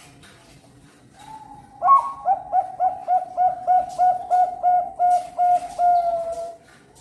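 Zebra dove (Thai-bred perkutut bangkok) singing: a soft lead-in note, then a loud start about two seconds in and a fast, even run of about a dozen short coos, roughly four a second, ending in a longer drawn-out note.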